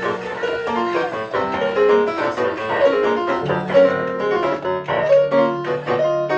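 Piano ensemble playing an arrangement of a pop song: a busy run of melody and chord notes in the middle register, with a held bass line entering about halfway through.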